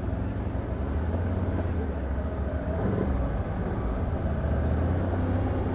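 Can-Am Outlander ATV engine running steadily, a low even drone.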